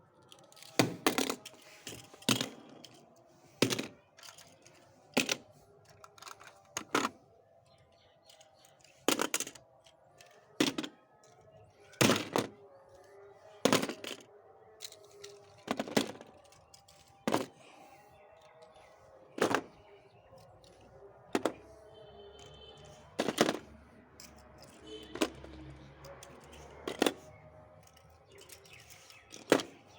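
Small die-cast toy cars clacking against a hard surface, one sharp clack every second or two, over faint background music.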